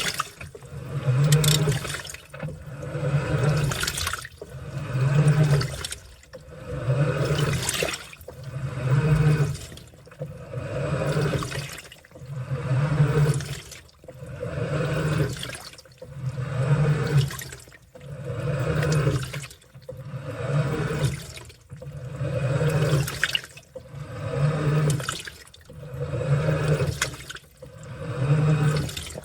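Washing machine washing a load: water sloshing and churning in even surges about every two seconds, each with a low motor hum, as the wash action drives the laundry back and forth.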